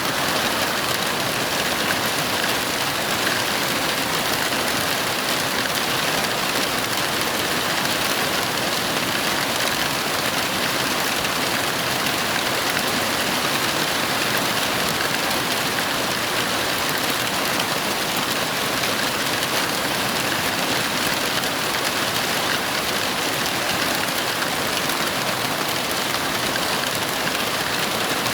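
Heavy rain falling steadily, an even hiss with no breaks or claps of thunder.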